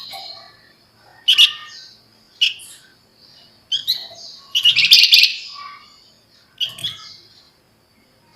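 Javan fulvetta (flamboyan) giving about five bursts of rapid, scratchy chattering calls, spaced roughly a second apart. The longest and loudest burst comes about five seconds in.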